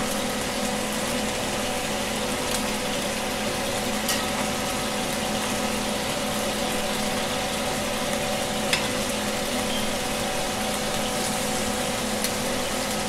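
Beef slices frying in hot oil in a pan, a steady sizzle over a low steady hum, with a few light clicks of metal tongs against the pan.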